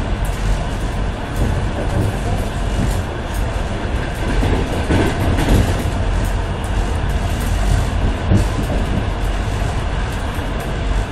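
Intercity passenger train running at speed, heard from inside a carriage: a steady rumble of wheels on rail, with a few louder knocks about five and eight seconds in.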